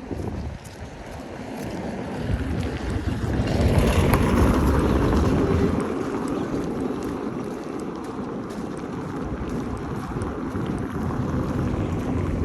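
Street traffic: a motor vehicle passes close by, its rumble swelling to a peak about four seconds in, then general traffic noise carries on steadily.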